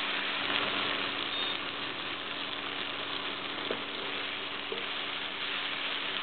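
Brinjal and capsicum strips sizzling in oil in a kadai, cooking down until they shrivel: a steady frying hiss, with a faint click about three and a half seconds in.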